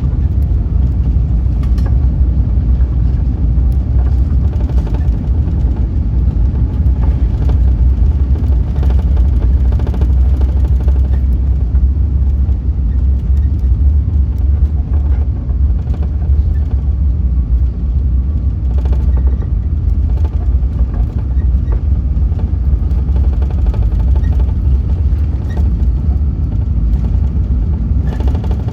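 Steady low rumble of an Airbus A380 heard inside the cabin, with faint light knocks scattered through it.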